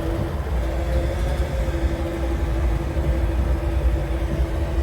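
A tow vehicle's engine running steadily under low load with a constant low rumble, plus a steady hum or whine, as it pulls a dead pickup truck along on a tether.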